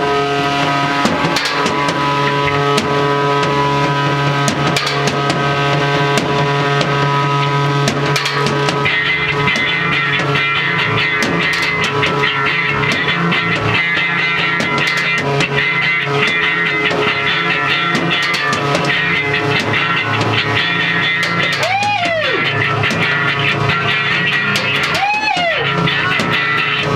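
Rock band playing loud and steady, with drum kit and guitar. About nine seconds in the sound changes, and from about 22 seconds on a swooping note rises and falls about every three seconds.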